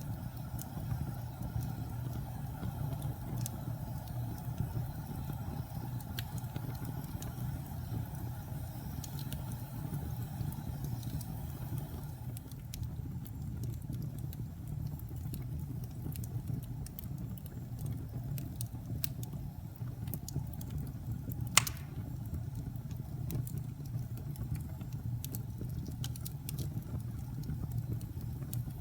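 Wood fire burning with a steady low rumble and scattered small crackles, with one loud, sharp pop about two-thirds of the way through.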